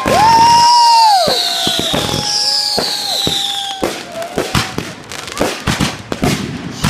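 Fireworks: several shrill whistles falling in pitch and wavering whines overlap in the first few seconds. From about four seconds in they give way to a rapid run of sharp cracks and bangs.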